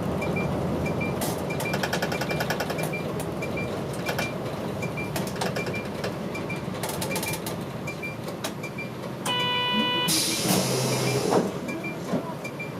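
Older diesel city bus running, heard from inside the cabin: steady engine and road noise with a regular light ticking and occasional rattling clicks. About nine seconds in there is a short electronic beep, followed by a burst of air hiss lasting about a second and a half.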